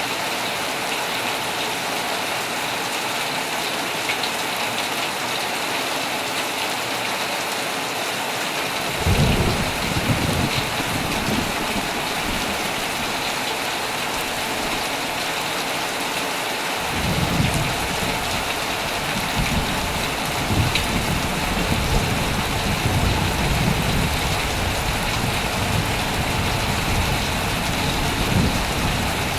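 Heavy rain falling steadily on a tent. About nine seconds in, low thunder starts rumbling. It breaks off briefly just past halfway, then rolls on again almost to the end.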